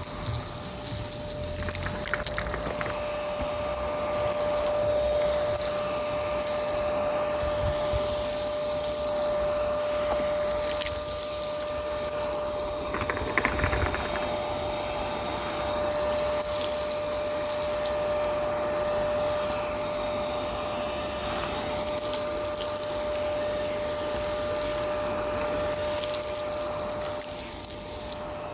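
Miele Complete C2 Tango EcoLine canister vacuum running steadily with a constant whine, with scattered crackles of grit and debris being sucked up.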